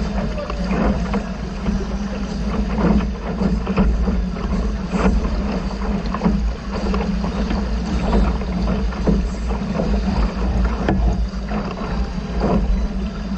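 A boat under way on the water, with frequent irregular splashes and slaps of water against the hull over a steady low hum and rumble.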